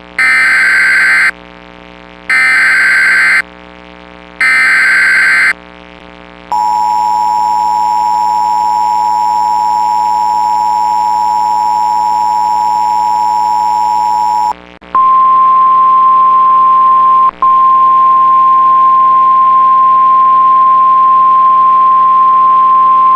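Emergency Alert System activation on NOAA Weather Radio: three short warbling digital header bursts, then a steady two-note attention tone for about eight seconds, then a single steady 1050 Hz weather-radio alarm tone with a brief dropout. It signals the start of an Extreme Wind Warning broadcast.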